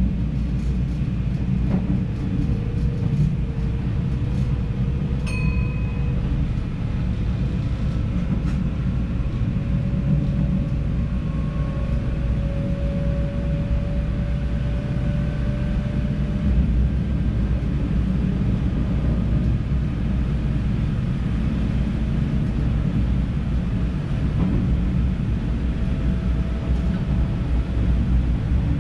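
NS DDZ double-decker electric train running along the track, heard from the driver's cab: a steady low rumble of wheels on rail with a faint whine that slowly rises in pitch. There is a short high beep about five seconds in.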